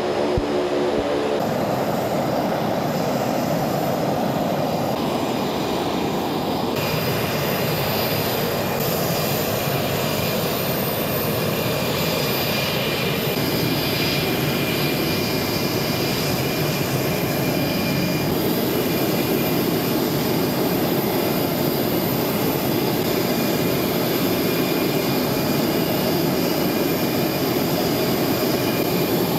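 Engines of a C-27J Spartan twin-turboprop military transport running steadily: a broad rushing engine noise with a thin high whine over it, which grows stronger about seven seconds in.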